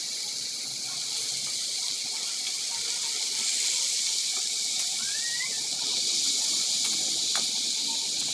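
Steady high-pitched hiss, with a faint short rising chirp about five seconds in.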